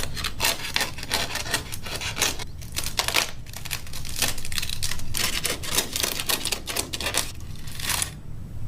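Papery wasp nest envelope being torn and picked apart, giving irregular crackling, tearing and scratching.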